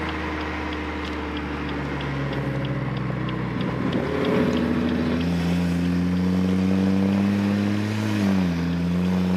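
Car engine droning at a steady cruise, heard from inside the cabin of a big-turbo BMW M240's turbocharged inline-six; its pitch shifts up a little a few times and drops away briefly near the end.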